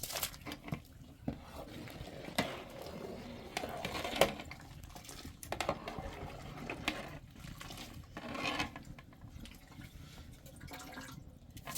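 Intermittent splashing of water with scattered clinks and knocks of dishes and utensils.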